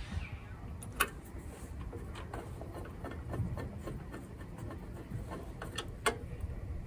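Handling noises from working on a small engine by hand: light rubbing and scattered small ticks over a low rumble, with two sharp clicks, one about a second in and one near the end.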